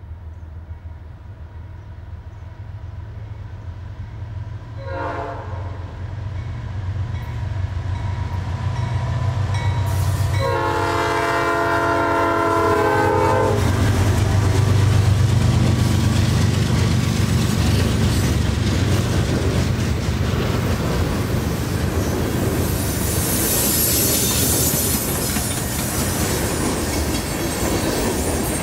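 Norfolk Southern GE AC44C6M freight locomotive's Nathan P5 air horn sounding for the crossing: a short blast about five seconds in and a long blast about ten seconds in, over a growing diesel rumble. The locomotives then pass, and tank cars roll over the crossing with wheel clatter and a high wheel squeal near the end.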